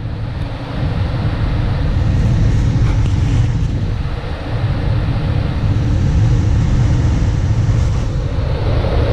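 Carrier furnace's blower fan running with a steady rumble of moving air.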